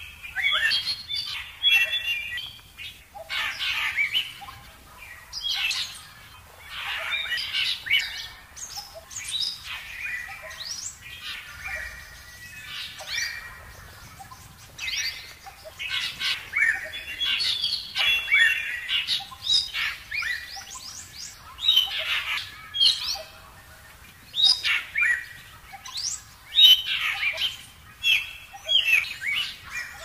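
Birds chirping: clusters of short, quick calls that sweep up and down in pitch, coming every second or two.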